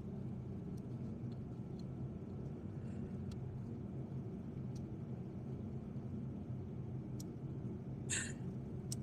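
A steady low background rumble with a few faint light clicks, and a brief louder clink or scrape about eight seconds in, from hand tools being handled during spark plug work.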